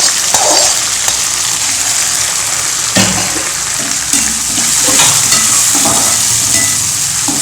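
Onions and freshly added tomatoes frying in hot oil, with a steady sizzle while a spoon stirs and scrapes the pan several times.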